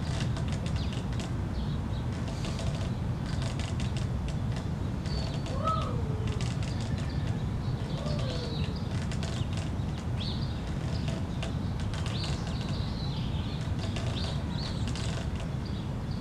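Birds chirping over a steady low rumble, with two short falling calls about six and eight seconds in.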